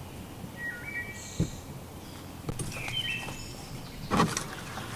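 A bird calling twice, each call a short run of flat whistled notes that jump abruptly in pitch, about two seconds apart, over faint outdoor background. A single soft knock falls between the calls, and a brief rustle comes near the end.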